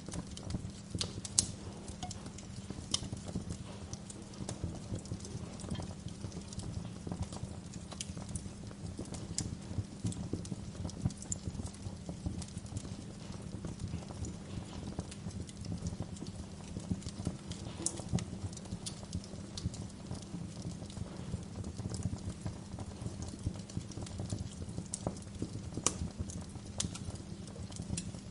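Wood log fire in a fireplace crackling, with irregular sharp pops and snaps over a steady low rumble of the flames.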